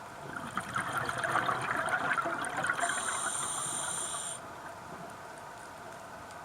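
A scuba diver's exhalation through the regulator underwater: a bubbling, crackly rush of about four seconds, with a steady high whine over its last second and a half, heard through the camera housing.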